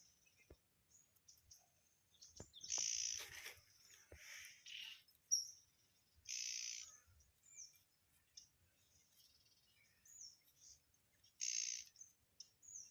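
Birds chirping in short, high calls, several times over, faint, with a few light clicks.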